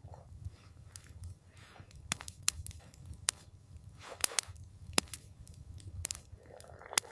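Wood campfire crackling, with sharp irregular pops every half second or so over a low, steady rumble of the flames.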